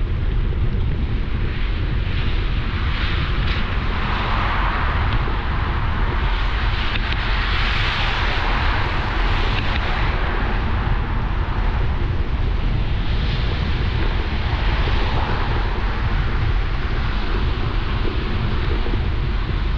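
Wind buffeting the microphone of a moving bicycle, a heavy steady rumble, with a rushing hiss that swells a few seconds in and again later.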